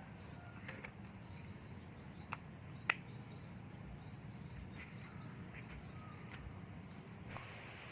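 Forest ambience: faint, scattered bird chirps over a steady low background hum, with two sharp clicks about two and a half and three seconds in, the second the louder.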